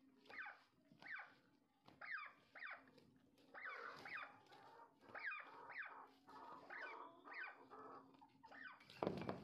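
Turkeys calling: a faint series of short calls, each dropping sharply in pitch, about one to two a second. A louder bump comes about nine seconds in.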